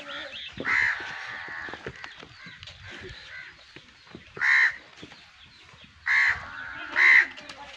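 A bird calling: four short, loud calls, one about a second in, one near the middle and two close together near the end, over faint rustling.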